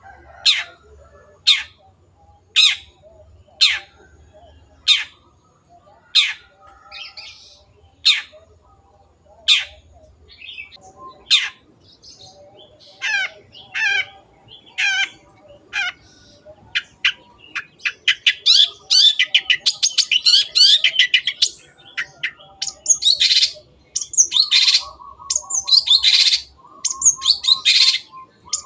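Long-tailed shrike (cendet) calling: a string of sharp, high single notes about one a second, which after about fifteen seconds turns into a loud, fast, dense chattering song.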